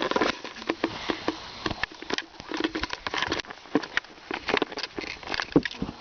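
Irregular rustling with many light clicks and taps, as of small objects and fabric being handled and moved about.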